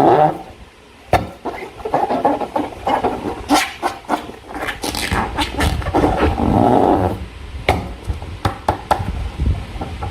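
Slime and a rubber balloon being squeezed and worked by hand: wet squelching in long stretches, with many sharp clicks throughout.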